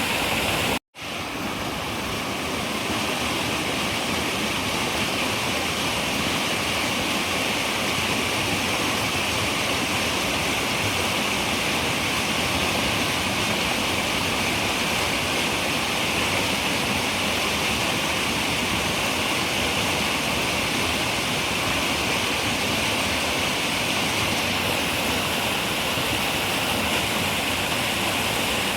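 Steady rushing of a river, running water with its hiss loudest in the upper range. About a second in it cuts out for an instant and fades back up, like an edit or loop point in the recording.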